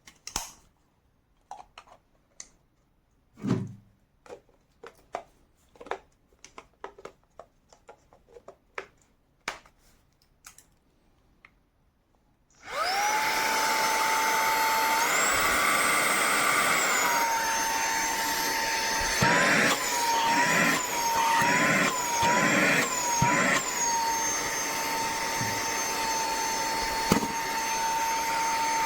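A dozen seconds of handling clicks and taps, then a Minthouz cordless handheld vacuum's motor switches on suddenly with a steady high whine and a rush of air. Its pitch steps up for a couple of seconds and settles back. Later it dips and recovers several times amid a few knocks, and it rises briefly once more near the end.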